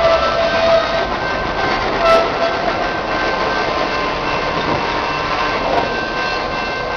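CN diesel freight locomotives hauling tank cars slowly through a rail yard: steady engine rumble and rolling wheel noise, with brief high tones coming and going.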